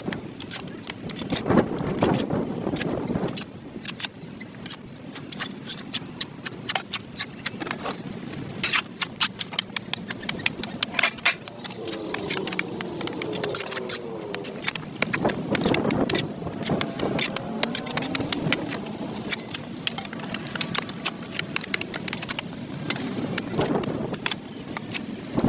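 Tools scraping and clicking on a sidewalk, many short sharp strokes in quick succession, with a passing motor vehicle audible around the middle.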